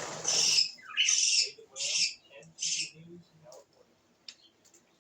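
Small birds squawking: four short, high, harsh calls in the first three seconds, then a few faint chirps.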